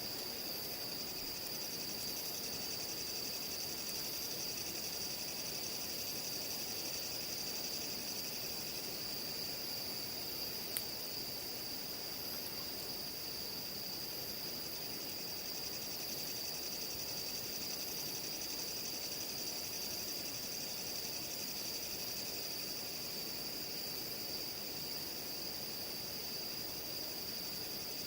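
A chorus of insects singing a steady, high, continuous trill. There is one sharp click about eleven seconds in.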